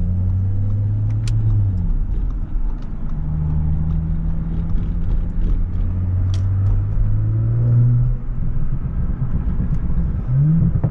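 Audi S5 engine and road rumble heard from inside the cabin while driving. The engine's pitch holds steady, then shifts down and up again with speed and throttle, rising quickly near the end.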